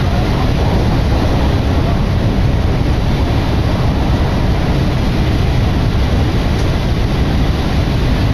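A passenger train running between stations, heard from inside the carriage: a steady, loud rumble of wheels and running gear on the rails.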